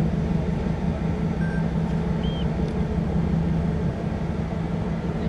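Steady low drone of a ship's engines and machinery, with a constant deep hum.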